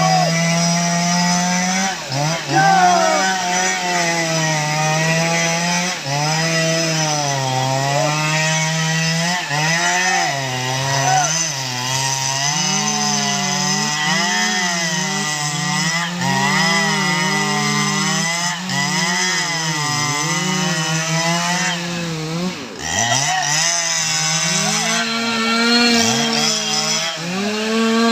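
STIHL MS 881 two-stroke chainsaw running at high revs while cutting teak. Its pitch sags and recovers again and again as the chain bites into the wood, with a brief sharper drop about 22 seconds in.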